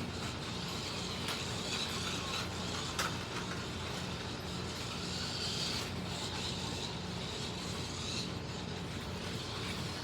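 Slot cars racing on a track: the small electric motors of two MR Slotcar Cunningham Corvettes and a Scalextric Mercedes 300 SLR whine, while their tyres and guides run over the track. The whine rises and falls as the cars speed up, brake and pass, with an occasional click.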